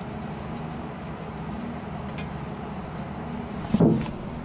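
A steady low hum with a few faint ticks, and one short louder sound near the end.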